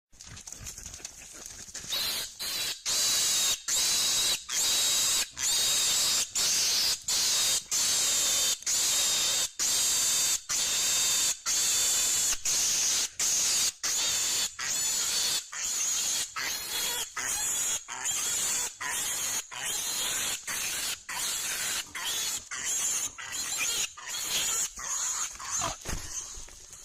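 Wild hog screaming in distress as a bear catches it: a long series of loud, high-pitched squeals broken by short breaks about once a second, starting about two seconds in and growing weaker near the end.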